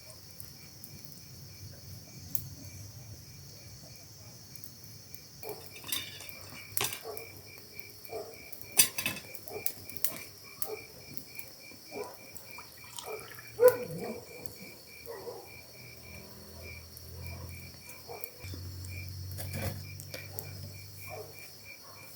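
Night chorus of crickets and frogs: a steady high insect buzz, with a frog calling in a long run of short, evenly spaced notes, about three a second. Scattered small clinks and knocks of dishes and cutlery come and go over it.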